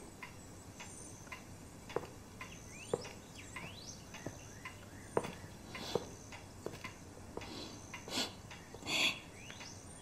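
Faint outdoor birdsong: scattered short chirps and a few quick rising calls over a quiet background.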